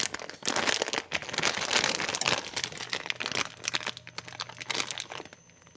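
Irregular crinkling and rustling, as of something being handled or crumpled, that dies down near the end.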